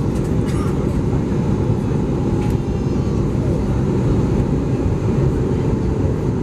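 Steady cabin noise inside an Airbus A320 on approach: engine and airflow noise, heaviest at the low end, with a few faint clicks.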